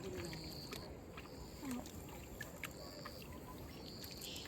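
Quiet outdoor ambience: short high-pitched chirps a few times, irregularly spaced, over a faint steady hiss with scattered light clicks.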